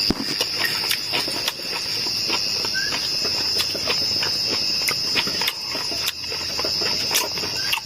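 Insects calling in a steady, high-pitched chorus, with scattered sharp clicks throughout.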